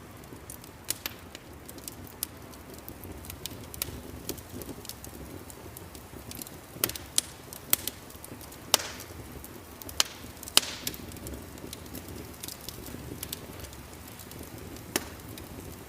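Wood fire crackling in a fireplace: irregular sharp pops and snaps over a steady low hiss, busiest about halfway through.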